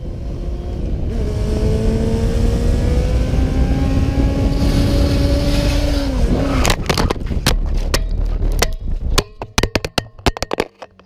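Vehicle engine running under acceleration, its pitch rising slowly, then dropping away about six seconds in. A rapid, irregular series of sharp knocks and scraping clicks follows.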